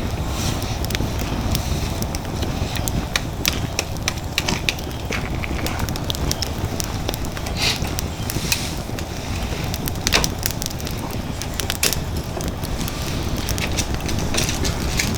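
Wood fire burning in an ANCAM fire pit: a steady low rushing roar as the fire draws air through the pit, with frequent sharp crackles and pops throughout and a louder pop about ten seconds in.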